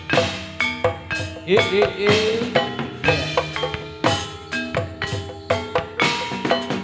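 Javanese gamelan-style ensemble playing gedruk dance music: drum strokes in a steady beat under ringing struck metal notes.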